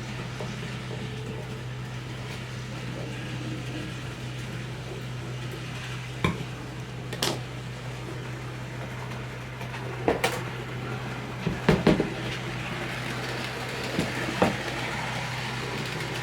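Several sharp clicks and clinks of small hard objects being handled and set down on a baseboard, some in quick pairs. Under them runs a steady low hum.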